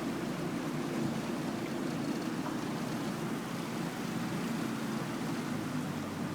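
Small boat's motor running steadily while under way, with a rushing hiss of water and wind over it.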